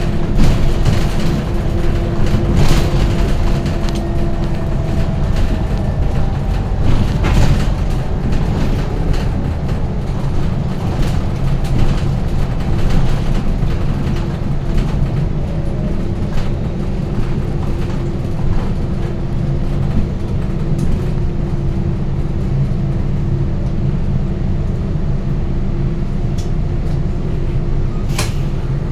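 Scania K230UB single-deck bus on the move: a steady diesel drone with a held whine that fades out about five seconds in and returns near the end, plus occasional knocks and rattles from the bus body.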